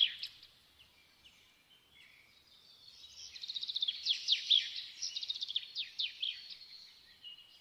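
A songbird singing in long runs of rapid, repeated chirps and trills: one phrase ends just after the start, then after a lull with a few faint chirps a longer phrase begins about three seconds in and runs for some four seconds.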